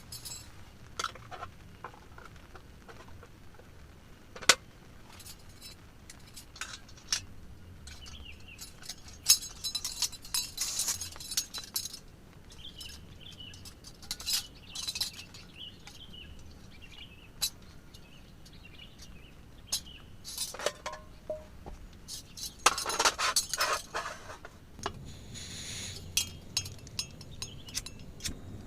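Cooking utensils and pots clinking and knocking in scattered light strikes, with busier runs of clatter now and then.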